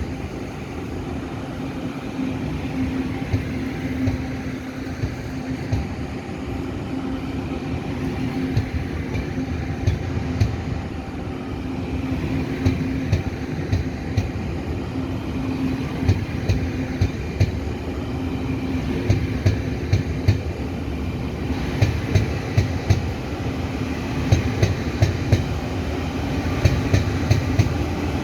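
Tze-Chiang express train pulling out of a station and picking up speed: a steady hum with wheel clicks over the rail joints that come faster and louder toward the end.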